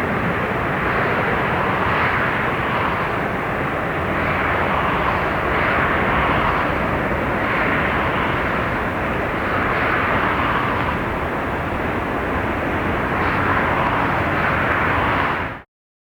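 Jet engine noise from a Turkish Airlines Airbus A330-223, its twin Pratt & Whitney PW4000-series engines running with a steady, loud rush that swells gently every second or two. It cuts off abruptly near the end.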